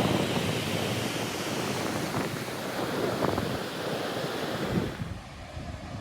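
Ocean surf breaking and washing, with wind buffeting the microphone; the hiss falls away sharply about five seconds in.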